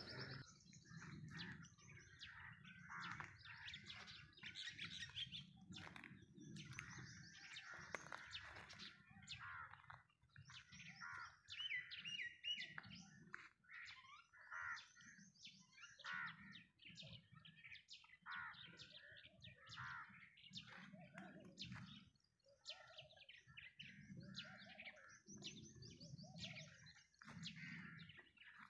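Faint chorus of small birds chirping and twittering, with many short calls overlapping and a quick run of repeated notes about twelve seconds in.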